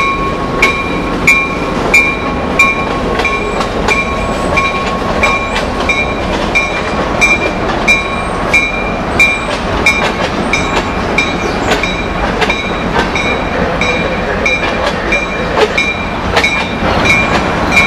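Freight cars rolling past with a steady rumble and clatter of wheels on rail. A grade-crossing bell dings evenly, about three strikes every two seconds, and a thin steady wheel squeal fades out in the first few seconds.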